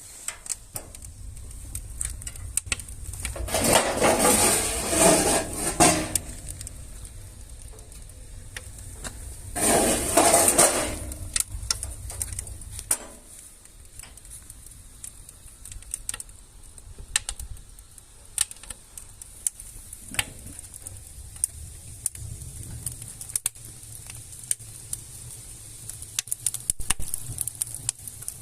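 Wood fire burning in a cast-metal heating and cooking stove, crackling with many sharp pops. There are two louder stretches of clattering and rattling, about four seconds in and again about ten seconds in.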